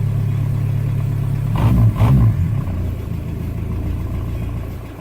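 Mk1 VW Rabbit pickup's diesel engine idling, revved twice briefly about two seconds in, then settling back to idle.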